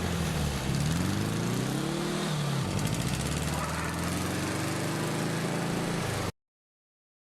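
A vehicle engine running, its pitch rising and falling several times as it speeds up and changes gear. The sound cuts off suddenly near the end.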